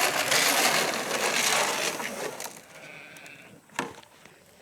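Fly spray hissing onto cattle in one long, steady burst that stops a little over two seconds in, followed by a single sharp click near the end.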